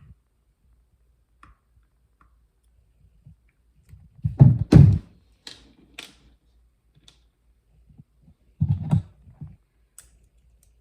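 Handling noises from a TPOB hair trimmer being worked on at a hard surface: a cluster of loud knocks about four seconds in, a few small clicks, and another cluster of knocks near nine seconds, as screws and the blade are taken off.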